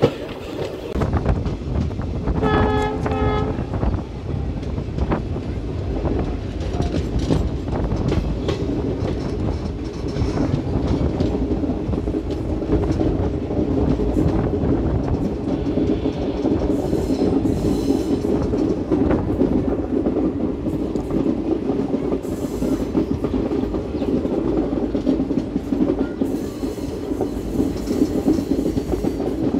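Passenger train running along the track with a steady rumble and rattle of wheels on rails. A short train horn blast sounds about three seconds in.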